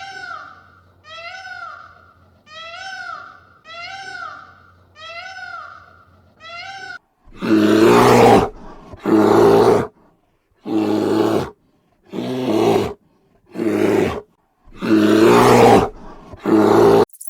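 Farm animal calls. A run of short pitched calls comes about once a second, then, about seven seconds in, a louder series of harsh calls about a second long each takes over.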